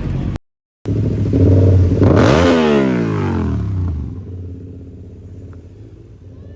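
A vehicle's engine accelerating hard past, its note climbing and then dropping sharply as it goes by, then fading into distant traffic. There is a brief cut-out of the sound about half a second in.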